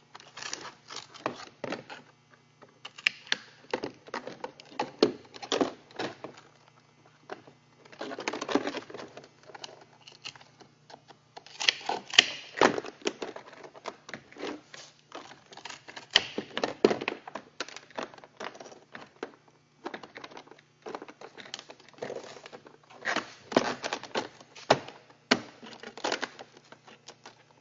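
Sheet-metal flashing being worked by hand: irregular sharp clicks, taps and crinkling metal in clusters with short pauses.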